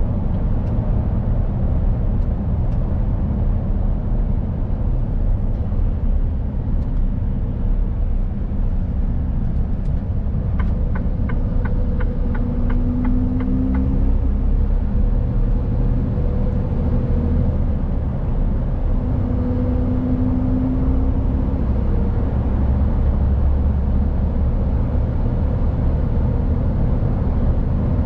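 Mercedes-Benz Actros truck driving: a steady low drone of diesel engine and road noise. About ten seconds in comes a short run of evenly spaced ticks, about three a second, lasting some three seconds.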